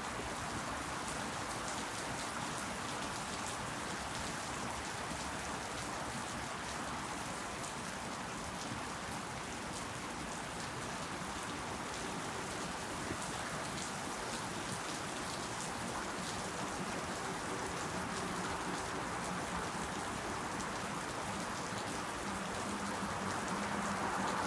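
Steady rain falling: a continuous hiss of many drops with fine ticks of individual drops striking, growing a little louder near the end.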